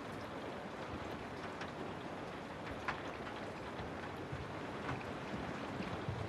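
Steady rain: a continuous hiss of falling rain with scattered single drops ticking, one sharper drop about three seconds in.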